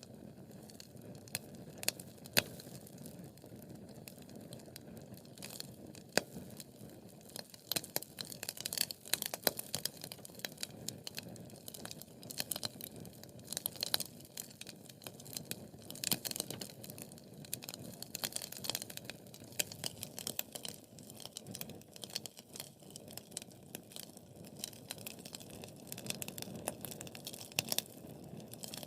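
Wood fire burning in a fireplace: irregular sharp crackles and pops over a low steady rush of flame, the crackling thickest in the middle of the stretch.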